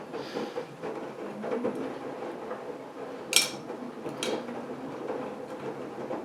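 AEG Lavamat washing machine running a wash, its eco silence drive inverter motor turning the drum with a low hum and no whine, over the rumble and clatter of laundry tumbling. Two sharp clicks come about three and four seconds in.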